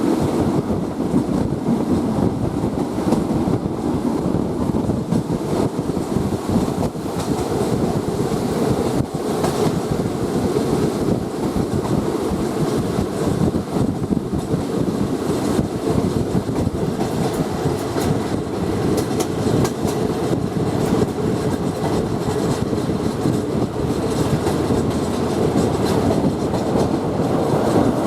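Passenger train running on the track, heard from aboard: a steady running noise with wheels clicking over rail joints.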